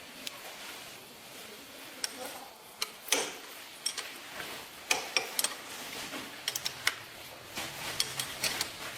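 Metal hand tools and parts clinking and clicking as they are handled: many short, sharp, irregular ticks and clinks, a few louder knocks among them.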